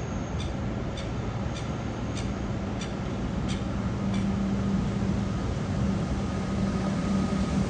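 Comeng electric suburban train approaching slowly, a steady rumble with a low hum that grows louder as it nears. A faint regular ticking, a little under twice a second, fades out about halfway through.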